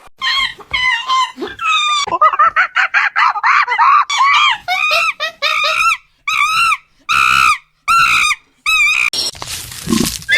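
An animal calling over and over in shrill, voice-like cries: a quick run of short calls, then a slower series of longer calls that rise and fall, with a noisier stretch near the end.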